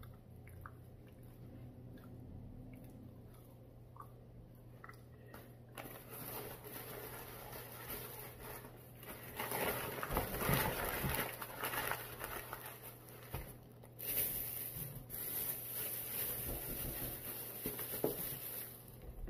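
A person eating, chewing and biting crunchy food. Small faint clicks for the first several seconds, then louder crunching and handling noise from about six seconds in.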